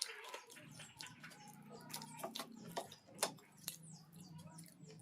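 Close-up eating sounds: chewing with irregular wet mouth clicks and smacks, the sharpest click about three seconds in.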